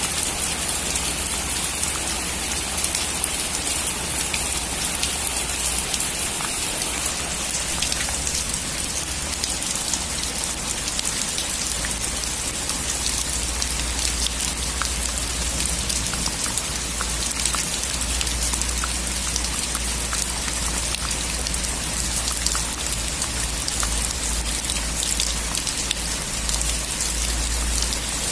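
Steady rain falling on a surface, with many individual drops ticking through a dense hiss and a constant low rumble underneath.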